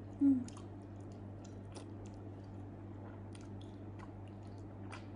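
Close-miked chewing of soft grilled eggplant: scattered wet mouth clicks and smacks. A brief hummed "mm" comes about a quarter second in, over a steady low hum.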